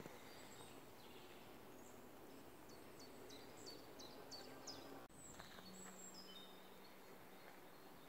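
Faint woodland birdsong: a songbird sings a quick run of short, high, falling notes over a soft background hiss. About five seconds in the background changes abruptly, and a few more high whistled bird notes follow.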